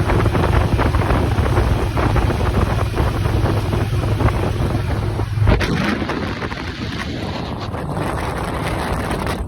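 Motorcycle engine running under way with heavy wind rushing over the microphone. About halfway through, the low engine note drops away and a faint rising tone follows while the wind noise continues.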